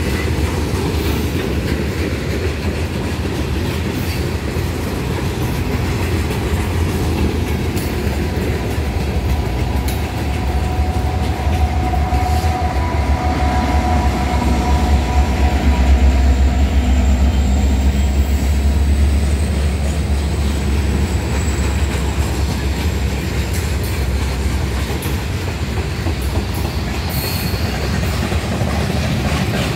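Freight train rolling past, its cars rumbling and wheels clicking over the rail joints. About halfway through, the low engine drone of two Norfolk Southern GE mid-train distributed-power locomotives, an AC44C6M among them, swells as they pass and then fades back into the rumble of the cars.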